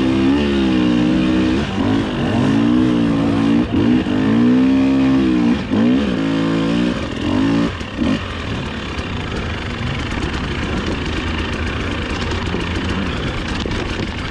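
Dirt bike engine revving up and down under throttle, its pitch rising and falling repeatedly; about eight seconds in it drops to lower, rougher running off the throttle.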